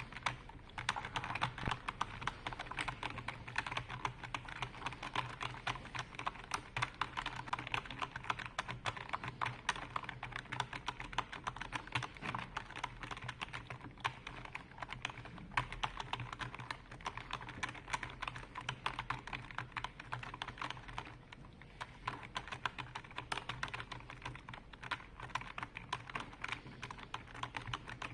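Fast, continuous typing on a computer keyboard: a dense stream of key clicks with a brief lull a little past two-thirds of the way through. A steady low hum sits beneath.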